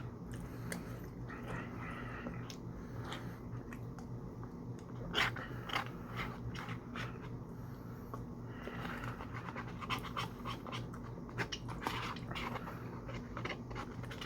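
Close-miked eating sounds: irregular wet chewing, lip smacks and mouth clicks, over a steady low hum.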